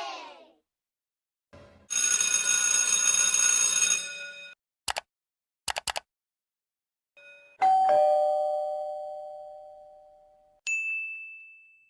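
A string of short sound effects: a bright, noisy ringing for about two seconds, a few quick clicks, then a two-note doorbell ding-dong that falls from the higher note to the lower and rings out slowly, and a short high ding near the end.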